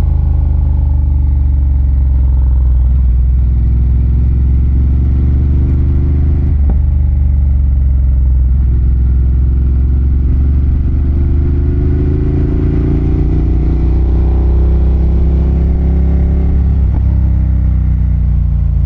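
Ducati Monster 1200's L-twin engine running loud under throttle while riding, with wind noise. The note breaks briefly about six seconds in, then its pitch climbs slowly over the next several seconds as the bike gains speed.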